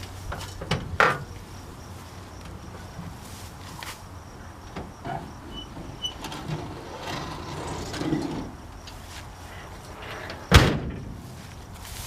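A couple of sharp knocks about a second in, a few lighter knocks, then one loud bang near the end that is like a door slamming shut.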